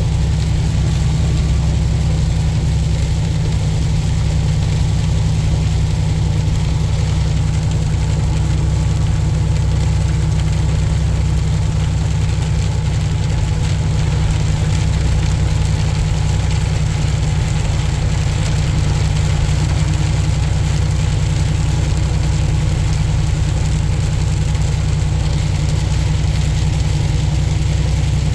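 Semi truck's engine running steadily on the highway, an unchanging low drone with an even haze of road noise above it.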